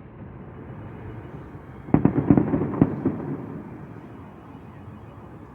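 Fireworks salute bursting: a quick cluster of about four bangs about two seconds in, echoing and fading into a low rumble.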